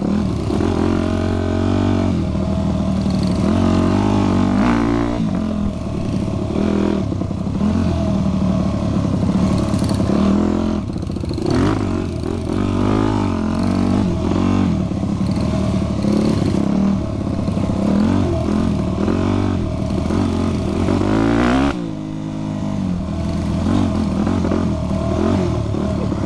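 Vintage mini bike's small engine revving up and down over and over as it is ridden, its pitch rising and falling with the throttle. About 22 seconds in the engine drops back to a lower, quieter note.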